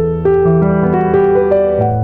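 Background piano music: a slow melody of held notes over a bass line.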